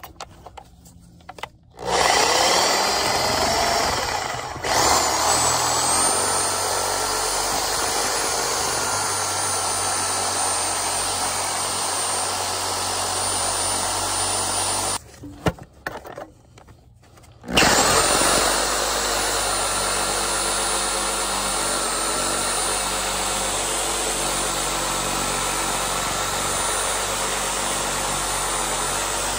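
DeWalt reciprocating saw cutting through 3-inch PVC sewer pipe to take out a sanitary tee. It starts with a rising whine about two seconds in, cuts steadily, stops for a couple of seconds past the middle, then starts again and runs on.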